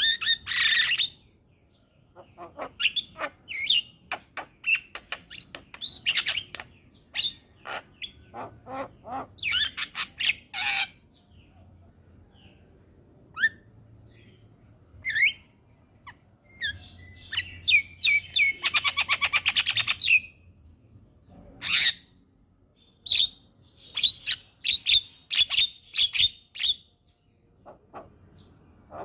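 Javan myna calling: bursts of short, harsh calls, chirps and clicks with brief pauses between them, and a fast rattling series about two-thirds of the way in.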